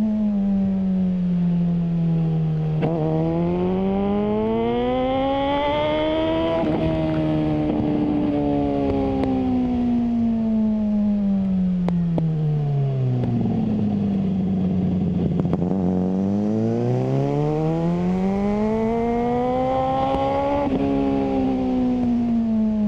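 Suzuki GSR600 inline-four motorcycle engine through a GPR Ghost aftermarket exhaust, its revs rising and falling in long smooth sweeps of a few seconds each, dropping lowest about two-thirds of the way through before climbing again.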